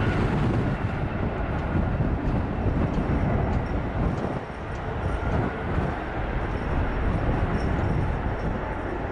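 Airbus A321neo's jet engines running at go-around thrust, a steady loud rumble heard from the ground.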